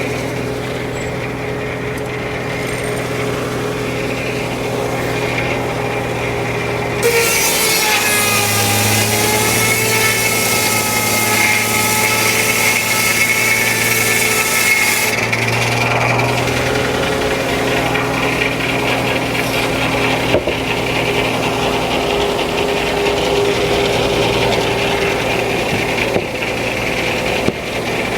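Frick No. 1 circular sawmill running steadily. About seven seconds in, the blade cuts into the log with a loud, high ringing whine that dips in pitch as it takes the load. The cut goes on for several seconds, then the sawing continues more quietly.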